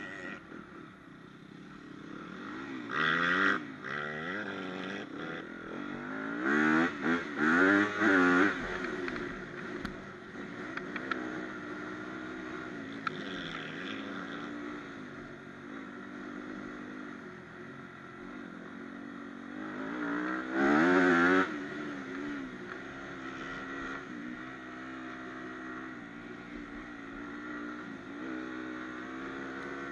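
Dirt bike engine heard close from on the bike, revving up and down as it is ridden, the pitch rising and falling with the throttle. Loud bursts of throttle come about three seconds in, around seven to eight seconds, and around twenty-one seconds, with steadier running between.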